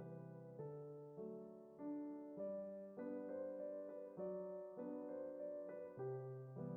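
Soft background piano music, with new notes and chords struck at an even, unhurried pace.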